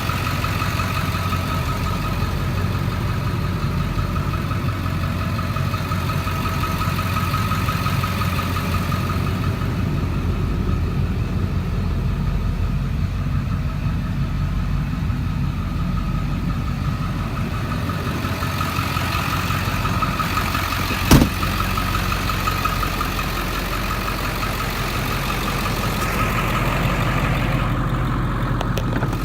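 2002 Ford F-350's 7.3L Power Stroke turbo-diesel V8 idling steadily, with a steady whine over the engine note. A single sharp click about two-thirds of the way through.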